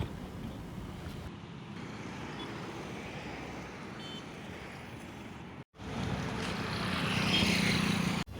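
Steady engine and road noise of a moving vehicle. It cuts out sharply about two-thirds of the way in and comes back louder, with a stronger low hum and more hiss.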